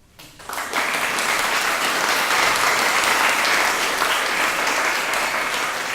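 Audience applauding: clapping breaks out just after the start, swells within a second to a steady, dense level and holds, easing off slightly near the end.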